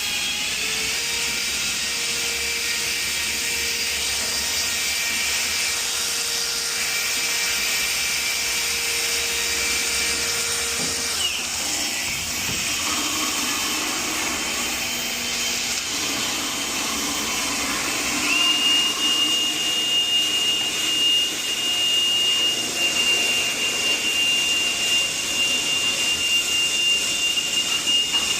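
Motor-driven drain-cleaning machine running steadily with a high whine and a hiss; the whine shifts pitch about eleven seconds in, and a higher steady whine sets in about two-thirds of the way through.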